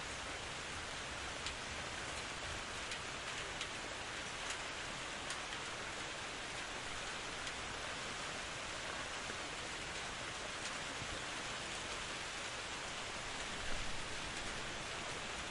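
Steady rain falling, an even hiss with individual drops ticking sharply now and then and a brief louder burst near the end.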